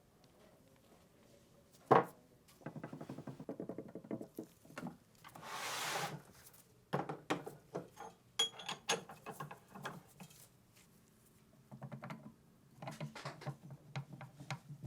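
Gun parts being handled at a workbench: a sharp knock about two seconds in, then runs of quick clicks and rattles, with a second-long hissing scrape near the middle.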